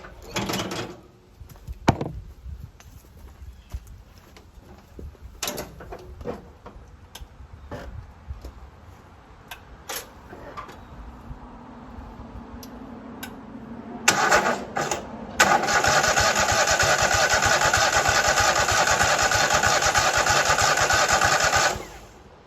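Racing lawnmower's twin-cylinder engine being cranked over by its starter on freshly cleaned spark plugs: two short tries, then one steady crank of about six seconds that cuts off suddenly. Scattered clicks and knocks come before it.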